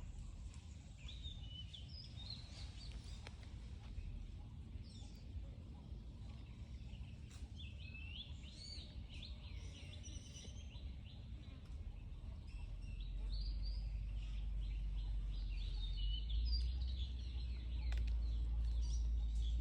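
Birds chirping outdoors in many short, gliding calls, over a low rumble that grows louder about two-thirds of the way through.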